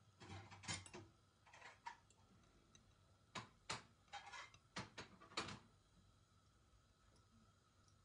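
Handling noises: a run of short knocks and scrapes over the first five or so seconds.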